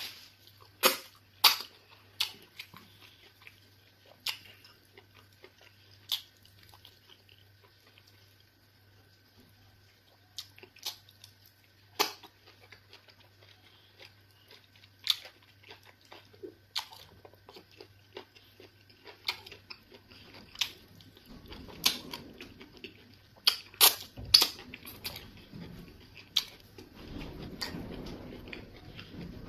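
Close-up mouth sounds of a person eating eba and fufu with egusi soup: scattered sharp smacking clicks at irregular intervals, coming thicker near the end, with low chewing sounds late on.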